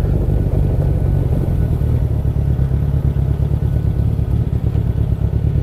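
Motorcycle riding at road speed: its engine and wind buffeting the microphone make a steady low rumble with a fast flutter.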